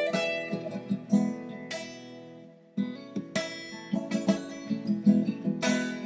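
Acoustic guitar picking an instrumental passage of ringing notes. It dies away to a brief near-pause about two and a half seconds in, then a strong note starts the picking again.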